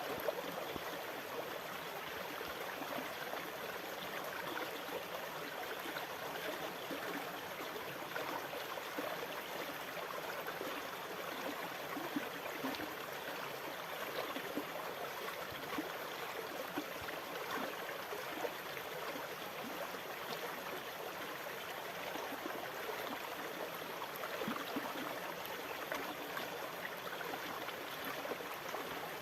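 Running water: a steady, even wash of small splashes with no slow rise and fall of breaking waves.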